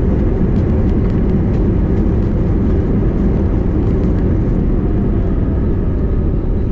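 Loud, steady low rumble inside the cabin of an Airbus A320neo during landing, with faint engine tones above it.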